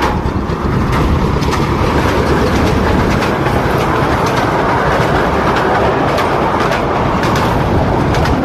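Steady loud rumble of a moving vehicle, with irregular sharp clicks and rattles throughout.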